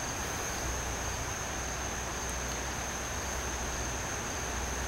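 Insects trilling: one constant high-pitched note over a steady hiss and low rumble of outdoor ambience.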